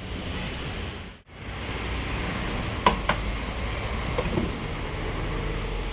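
Steady low rumble of street traffic, with two short sharp clicks about three seconds in.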